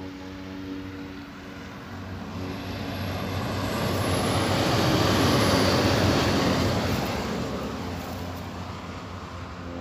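Red regional passenger train passing close by on the line: its running and wheel noise builds steadily, is loudest about halfway through, then fades as it moves away.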